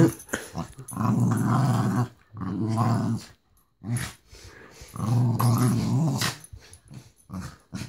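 A dog growling in repeated low, rumbling spells, each lasting up to about a second and a half, with short pauses between them, during rough play-fighting with another dog.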